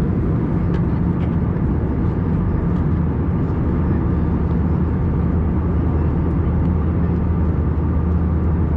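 Steady cabin drone of an Airbus A321-200 in cruise: engine and airflow noise with a constant low hum underneath.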